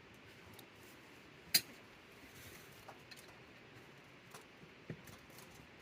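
Small wood fire crackling: scattered sharp pops over a faint steady hiss, with one louder pop about one and a half seconds in.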